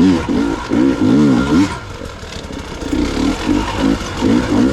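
Gas Gas EX 300 two-stroke enduro motorcycle engine under the rider's throttle, revving up and down in quick swells. It eases off about two seconds in and picks back up toward the end.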